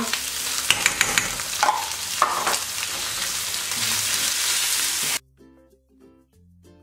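Canned tuna and onions sizzling in oil in a nonstick frying pan, stirred with a wooden spoon that scrapes and taps against the pan. The sizzling cuts off abruptly about five seconds in, leaving faint background music.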